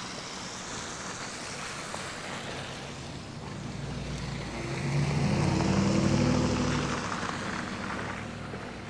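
A motor vehicle driving past. Its engine and tyre noise swell to a peak about six seconds in, then fade, over a steady hiss of street noise.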